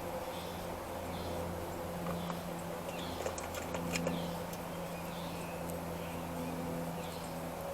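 Small birds calling outdoors, short high chirps repeating about once a second, over a steady low hum, with a few light clicks about two to four seconds in.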